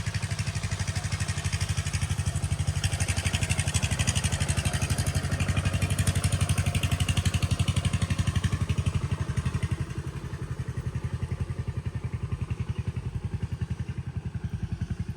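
A small engine running steadily with a fast, even beat. It gets a little louder partway through and eases off about ten seconds in.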